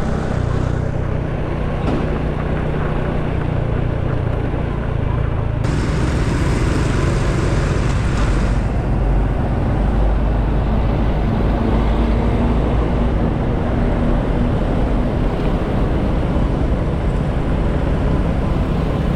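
Riding noise from a moving motorcycle: a steady rush of wind on the camera microphone over the engine and tyre noise, with a louder hiss from about six to eight and a half seconds in.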